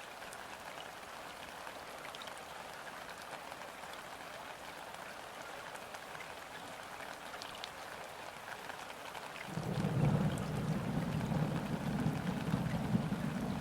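Rain falling on a river, a steady hiss with scattered drop ticks. About two-thirds of the way through, a low rumble of distant thunder sets in suddenly and keeps rolling.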